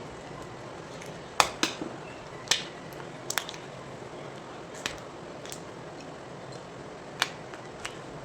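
Pieces of gym chalk cracking and crunching as they are twisted apart by hand: a string of sharp, irregular snaps, the loudest in the first few seconds, over a steady low hiss.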